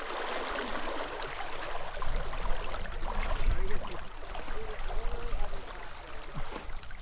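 Stream water running, a steady rushing hiss, with a low rumble on the microphone from about two seconds in.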